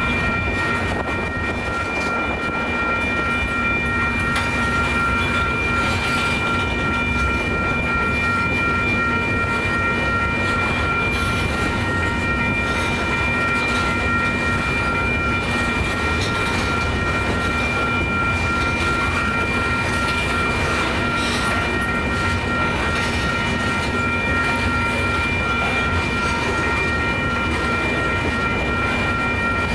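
Tank cars of a long freight oil train rolling steadily past over the crossing. Over it, the crossing's warning bell rings without pause.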